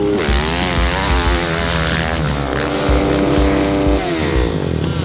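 Dirt bike engine revving hard on a jump: the pitch climbs, holds high and steady through the middle, then drops away near the end as the throttle is let off.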